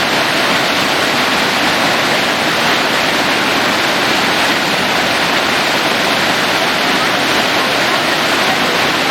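Waterfall pouring steadily into a pool, a loud, even rush of falling water.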